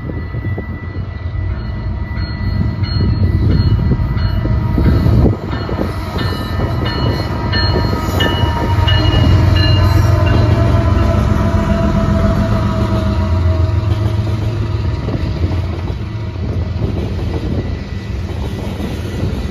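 Freight train passing at close range: the GE diesel locomotives' engines run loudest as they go by, then loaded freight cars roll past with steady wheel-on-rail noise.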